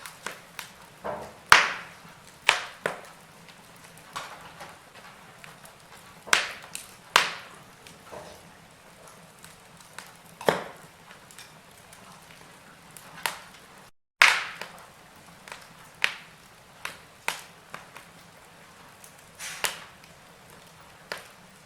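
Wood fire in a fireplace crackling and popping: irregular sharp pops, a few of them loud, over a faint steady hiss. The sound cuts out completely for a moment about two-thirds through.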